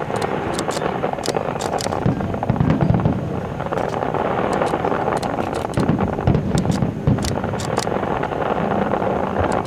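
Fireworks display: a continuous rumble of bursts with clusters of sharp crackles and pops over it.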